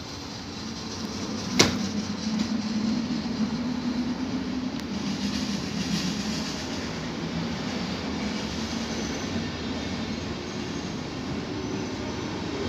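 Passenger train coaches rolling past along the platform: a steady rumble of wheels on the rails. A single sharp clack about a second and a half in is the loudest moment.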